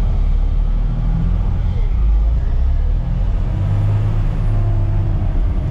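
Off-road haul truck's diesel engine running with a deep, steady rumble as the truck works in deep ruts.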